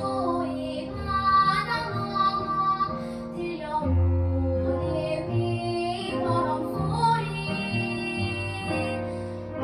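A child singing a slow children's song in the Jeju language solo, over instrumental accompaniment with a moving bass line.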